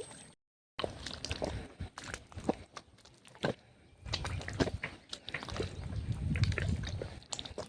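Water and wet mud sloshing and squelching, with scattered small clicks and knocks, and a low uneven rumble in the second half.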